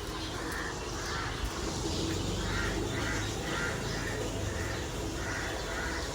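A bird calling over and over, short calls about two a second in an even rhythm.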